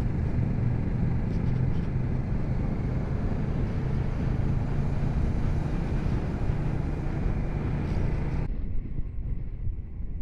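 Motorcycle engine droning steadily at road speed under heavy wind rush. About eight and a half seconds in, the sound changes abruptly and turns duller as the high end drops away.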